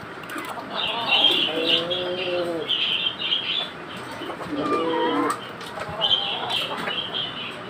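Many caged birds chirping together in a dense, high twittering. Lower pitched calls rise above it twice.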